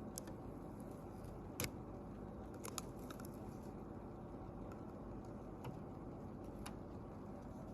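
Light clicks and taps of small repair tools handling smartphone parts, about six of them spread out and the strongest about one and a half seconds in, over a steady low room hum.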